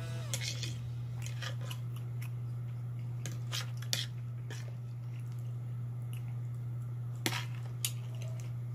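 Close-up chewing and mouth sounds, with scattered sharp clicks of a metal fork scraping and tapping on a plate of fried rice, over a steady low hum.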